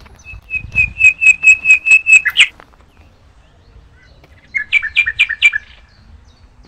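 A songbird singing two phrases: first a run of about eight quick notes on one pitch that ends in a short falling flourish, then, after a pause of about two seconds, a shorter phrase of about four two-part notes.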